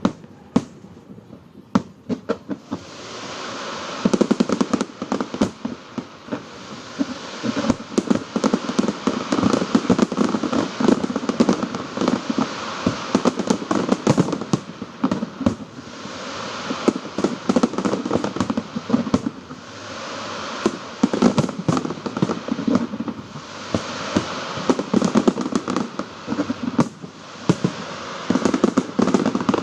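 Fireworks display: a few scattered bangs at first, then from about four seconds in a dense, continuous run of rapid bangs and crackling.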